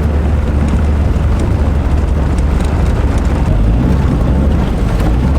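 Shelby Dodge Rampage's 2.2-litre four-cylinder engine running at a steady speed while driving, a low, even drone with road noise over it.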